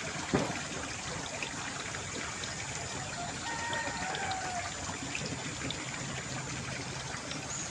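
Steady trickle of running water, with a brief sharp knock about half a second in.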